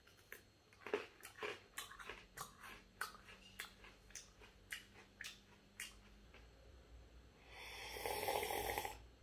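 Open-mouthed chewing of a crunchy snack, with sharp crunches about three a second for some six seconds. Near the end comes a loud slurp from a mug, lasting about a second and a half and louder than the chewing.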